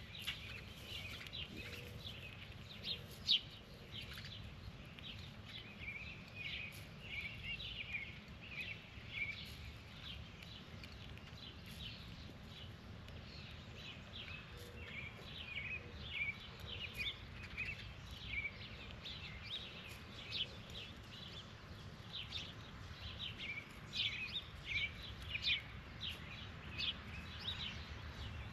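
Birds chirping in quick, frequent short calls over a steady low outdoor rumble, with one sharp knock about three seconds in.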